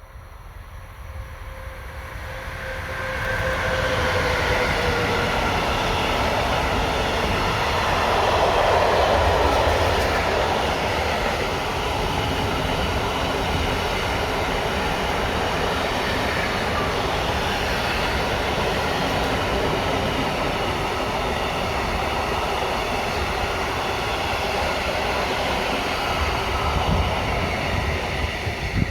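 Train passing close by on the line: a tone falling slightly in pitch as it approaches, then a long, steady run of wheels on rail that lasts some twenty-five seconds.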